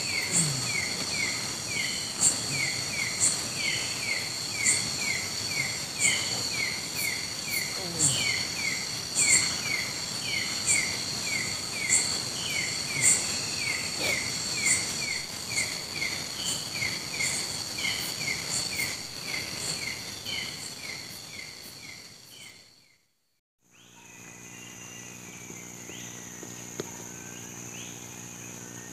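Night insect chorus of tropical forest: several steady high-pitched trills with a rapid run of short repeated chirps and regular sharp clicks over them. It fades out about three-quarters of the way through and gives way to a quieter ambience with a steady low hum.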